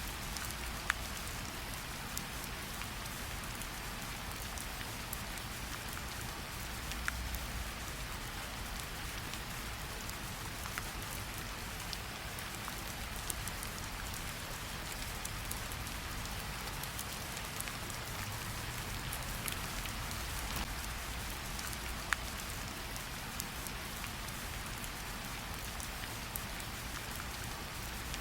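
Steady rain hissing on tree leaves, with individual drops ticking and dripping at irregular moments, now and then one louder drop.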